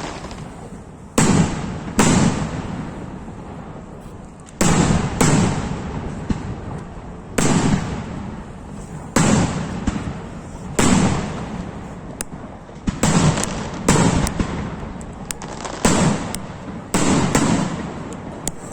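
Fireworks display: a string of sharp shell bursts, about fifteen, each bang followed by a rumbling echo that dies away over a second or so. They come every second or two, bunching closer together in the second half.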